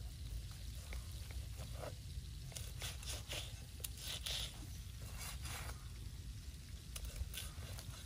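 Machete blade scraping over the roasted skin of a whole spit-roasted chicken, in a run of short scraping strokes from about two and a half seconds in and a couple more near the end, over a steady low rumble.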